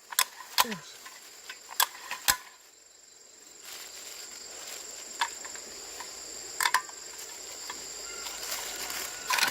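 A few sharp metallic clicks and taps of tools on metal, several close together at first, then spaced a few seconds apart. Insects chirr steadily throughout as a constant high tone.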